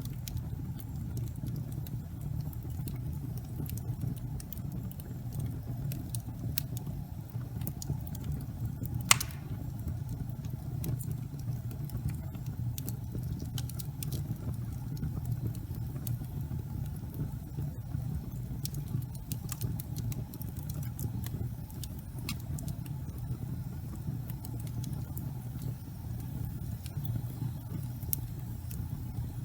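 Fireplace fire burning: a steady low rumble of flame with scattered small crackles and one louder pop about nine seconds in.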